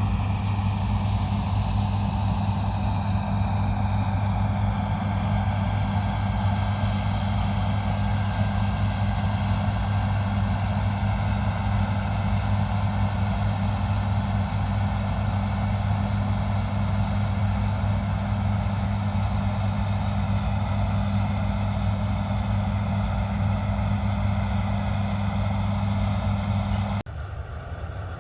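Diesel engine of a John Deere harvest machine running at a steady speed, a constant low drone. Near the end the sound drops abruptly and becomes quieter.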